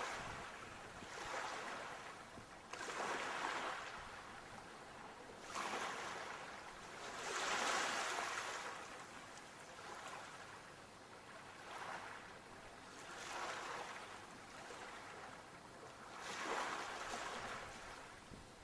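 Sea waves washing in, a hiss that swells and fades about every two to three seconds.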